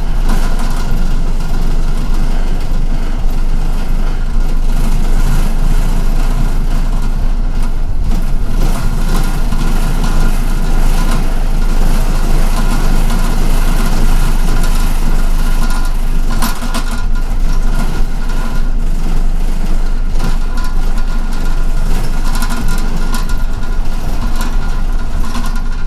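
MTA city bus engine running steadily, heard from inside the passenger cabin, with a deep low hum and a constant noise.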